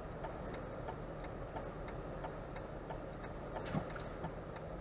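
Faint, regular ticking over a steady low rumble inside a car cabin.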